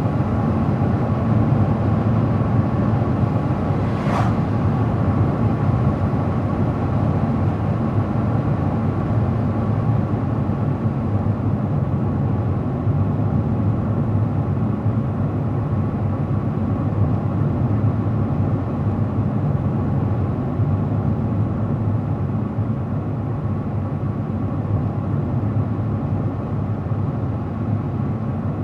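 Steady hum of a car driving at speed, tyre and engine noise with no change in pace, and a single brief click about four seconds in.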